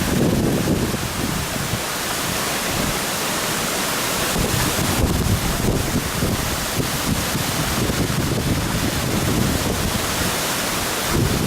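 Water rushing steadily over a sabo (erosion-control) dam, a continuous even hiss, with wind buffeting the microphone in low gusts.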